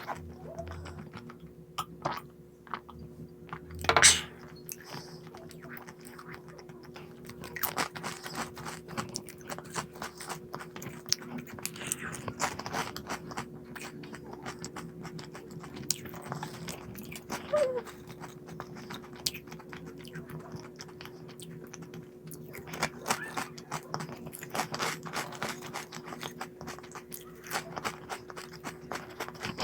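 Close-up chewing and crunching of crunchy snack food, a stream of small crisp crackles with one loud crunch about four seconds in, over a faint steady hum.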